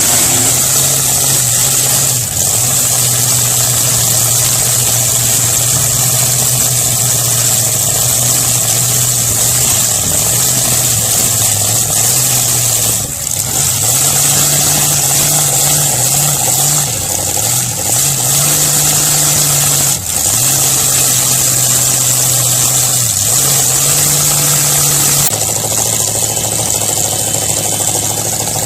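Demolition derby car engines running loud and revving, the pitch sagging and climbing back every few seconds as the cars push and back off.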